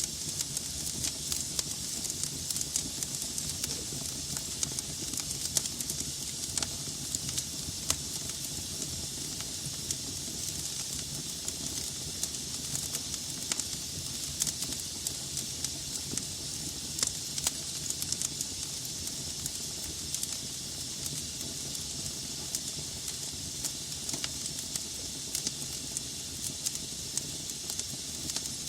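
Wood fire burning in a fireplace: a steady hiss with frequent small, sharp crackles and pops from the burning logs.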